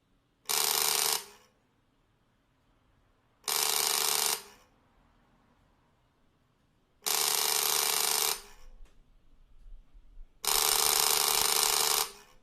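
Doorbell ringing four times, each ring about a second long and a few seconds apart, the later rings a little longer.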